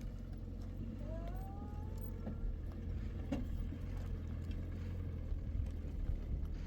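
A vehicle engine idling, a steady low hum, with a few faint knocks.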